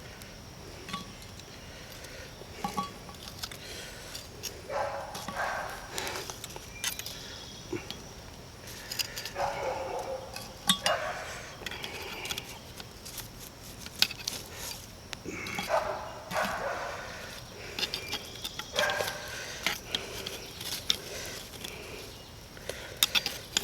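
Metal tongs clinking and charcoal briquettes tapping as hot coals are set onto a cast-iron Dutch oven lid, heard as scattered sharp clicks. Short mid-pitched calls, something like an animal's, come several times about every four to five seconds.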